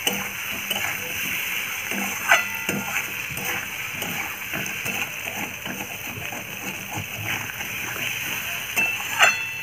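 Potatoes and spice paste sizzling in a metal kadai as a metal spatula stirs and scrapes them, sautéing the masala. Sharp clinks of the spatula against the pan ring out about two seconds in and again near the end.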